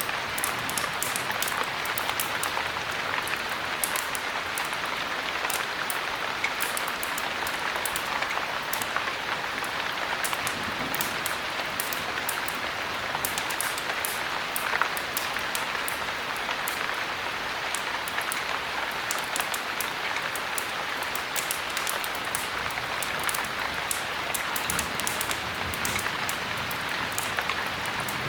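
Steady heavy rain falling, an even hiss with many short, sharp ticks scattered through it.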